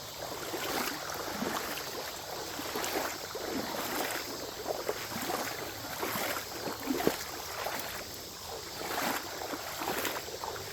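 Shallow creek water sloshing and splashing in irregular strokes, as when someone wades or walks through it.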